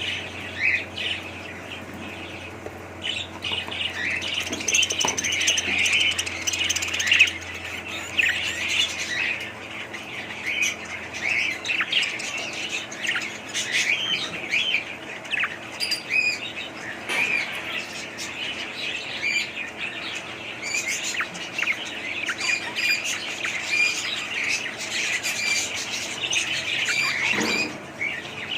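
Several budgerigars chattering and chirping continuously, many quick overlapping calls with occasional sharper squawks.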